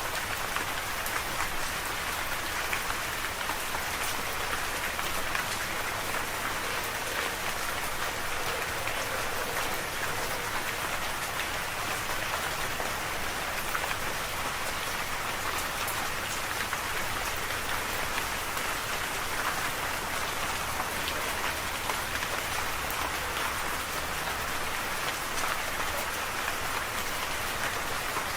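Steady rain falling, an even hiss with many small drop ticks spattering on surfaces.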